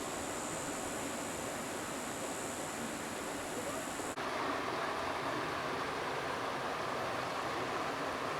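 Steady rush of flowing river water. About four seconds in the sound cuts to a slightly louder, fuller rush, and a thin high steady tone that runs before the cut stops there.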